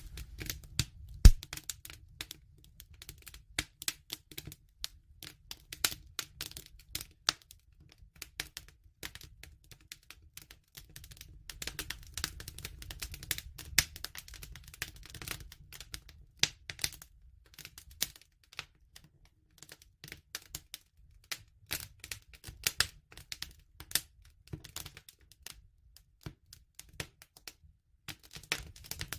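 Wood fire crackling and popping at irregular intervals over a low rumble of the flames, with one loud pop about a second in.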